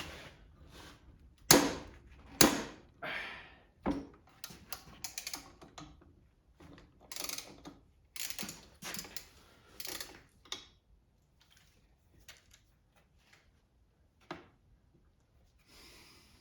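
Hand tools and metal engine parts knocking and clinking while a Kohler small engine is taken apart, with a few sharp metallic knocks in the first four seconds, a busy run of clicks and rattles after them, then only the odd tick.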